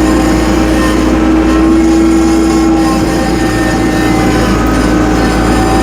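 Tractor engine running steadily while driving, a constant hum with a held tone.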